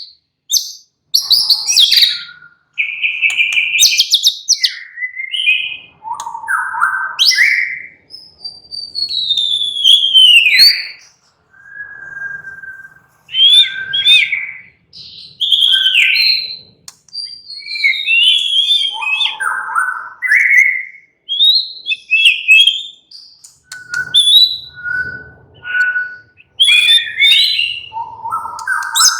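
White-rumped shama singing: a varied run of loud whistled phrases, rising and falling glides and quick chirps, separated by short pauses, with a few short notes repeated on one pitch about three quarters of the way through.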